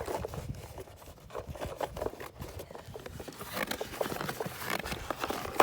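Handling noise from sprinkler valve parts: irregular light clicks, taps and rustles, busier in the second half.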